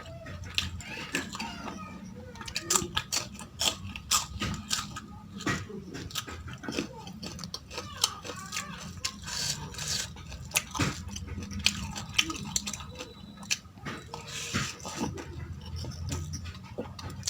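Close-miked eating of mutton tahari and salad: chewing and crunching with many sharp clicks, over a low steady hum.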